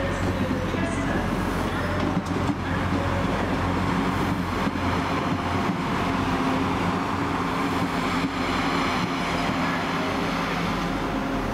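Passenger train running past close by on the near line: a steady rumble of wheels and running gear with a low humming tone.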